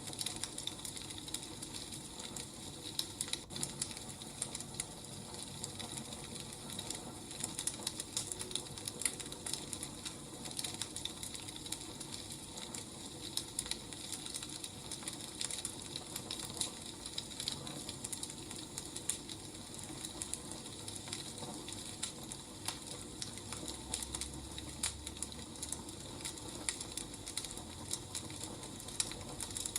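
Wood fire crackling: a steady, irregular stream of small pops and snaps over a faint hiss.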